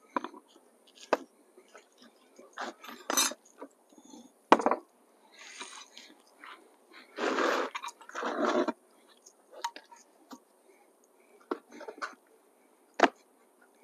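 Beehive parts being handled during an inspection: scattered sharp knocks and clicks of wooden boxes, frames and tools, with two longer rustling bursts about halfway through.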